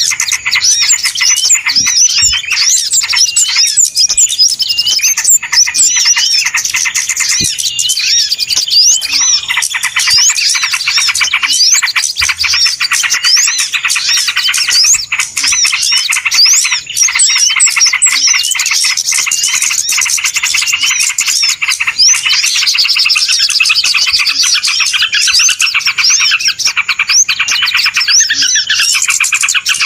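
A dense chorus of many small birds chirping and twittering without pause, high-pitched calls overlapping one another: a noisy bird-lure (pikat) recording of the kind played to draw wild birds in.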